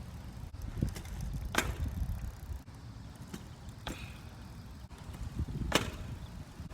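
Bicycle ride: a steady low rumble of wind and rolling on the microphone, broken by a few sharp clicks or rattles from the bike.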